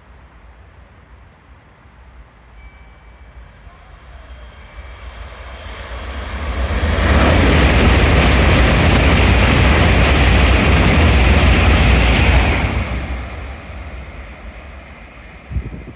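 N700 series Shinkansen passing through a station without stopping. It builds over a few seconds to a loud rush of air and running noise, holds for about five seconds as the train goes by, then fades away. A sharp knock comes near the end.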